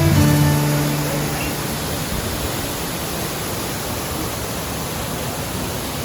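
Steady rushing roar of a waterfall, with the last guitar note of the background music dying away in the first second or so.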